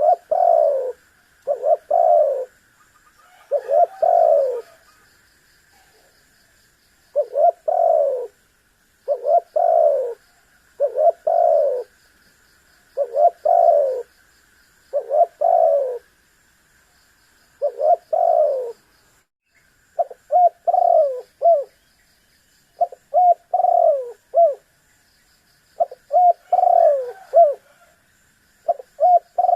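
Spotted dove (tekukur) cooing over and over: a phrase of two to four coos about every two seconds, the coos shorter and more clipped in the last third.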